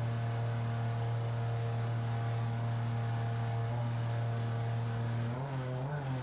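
Outboard jet boat motor running at a steady pitch. Its note starts to waver up and down about five seconds in.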